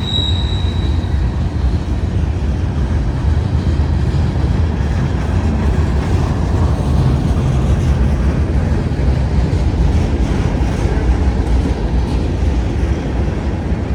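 Freight cars of a mixed manifest train rolling past on the rails in a steady, loud rumble. A high wheel squeal fades out about a second in.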